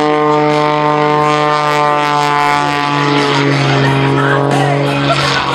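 Propeller aircraft flying past, its engine and propeller making a steady droning tone whose pitch drops slightly about halfway through as it passes.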